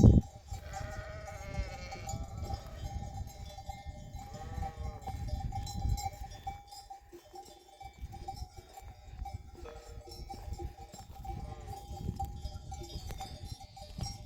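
Sheep bleating twice among the flock, with sheep bells clanking and a low rumble underneath.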